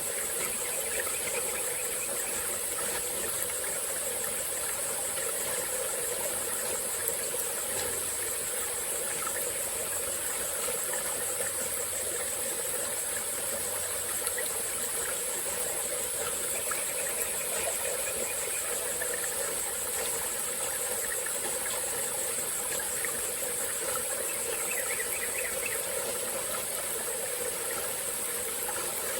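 Small tropical forest stream flowing steadily, with a continuous high-pitched drone of insects over the rush of water.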